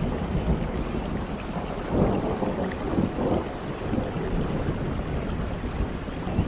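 Rain falling steadily with low rumbling thunder, swelling louder about two and three seconds in.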